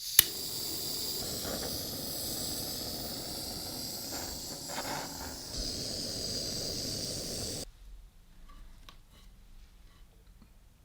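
A steady, loud hiss that starts with a sharp click and cuts off abruptly after about seven and a half seconds.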